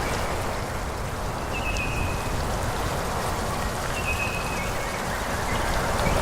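Forest ambience: wind rushing steadily through the trees, with a low buffeting rumble. Two short, high bird calls come through, about two seconds in and about four seconds in.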